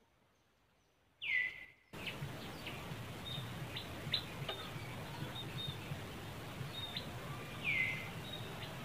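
A bird calling twice, each call a loud whistle sweeping down in pitch and then levelling off, the first about a second in and the second near the end. Between the calls, outdoor ambience with scattered faint chirps and ticks, which cuts in suddenly about two seconds in.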